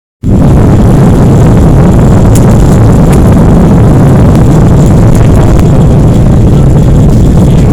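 Loud, steady roar of a jet airliner's engines heard inside the cabin, cutting in suddenly just after the start.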